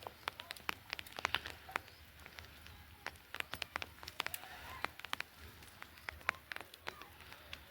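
Irregular sharp clicks and taps, several a second, with a few faint short animal calls now and then.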